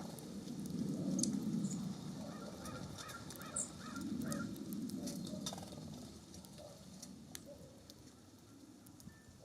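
Wind gusting over the microphone in two swells, with bird calls at a feeder: a run of about five short notes a few seconds in, a few high chirps, and scattered light taps.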